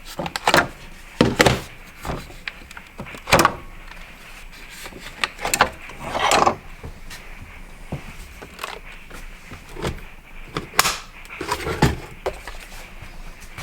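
A series of irregular knocks and bangs, about a dozen sharp hits spread unevenly over several seconds.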